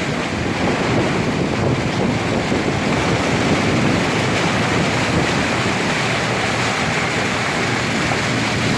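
Steady rushing wash of floodwater around a vehicle driving through it.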